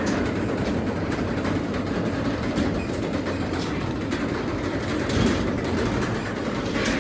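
Craftsman 3/4 hp belt-drive garage door opener running steadily on a close cycle.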